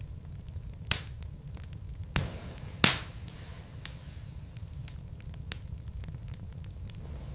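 Wood fire burning in a fireplace: a steady low rumble with scattered crackles and three loud pops of the logs, about one, two and three seconds in, the last the loudest.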